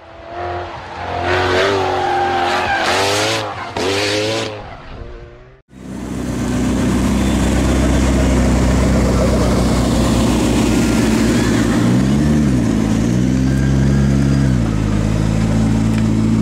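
McLaren P1's twin-turbo V8 revving, its pitch rising and falling, then after a sudden cut idling steadily, with two short throttle blips about three-quarters of the way through.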